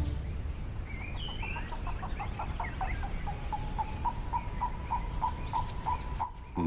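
Bush ambience with a bird calling a long series of short notes at one pitch, about three a second, and a few higher chirps near the start, over a steady thin high tone and a low rumble.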